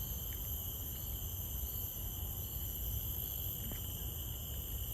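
Steady chorus of insects in tropical forest: several unbroken high-pitched tones layered over one another, with a low rumble underneath.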